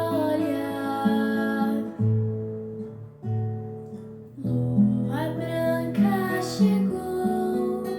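Acoustic guitar playing strummed chords over a bass line, with the chords changing every second or so.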